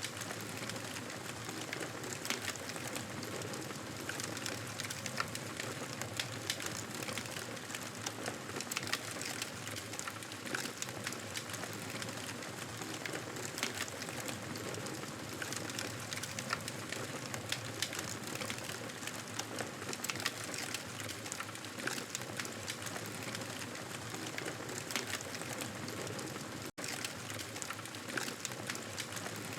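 Wood fire crackling in a fireplace: a steady hiss with frequent small snaps and pops, and a momentary dropout near the end.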